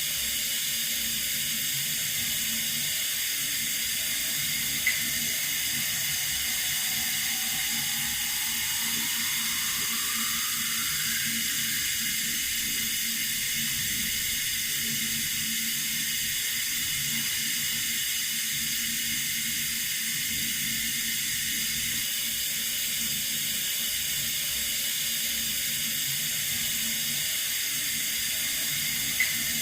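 Water running steadily from a tap, an even hiss, with a brief click about five seconds in and again near the end.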